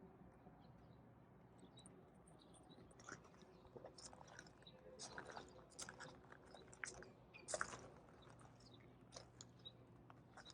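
Near silence with faint scattered clicks and crunches, most of them from about three seconds in.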